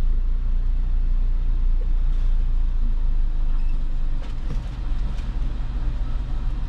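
Car engine idling with a steady low drone, and a few faint clicks about four to five seconds in.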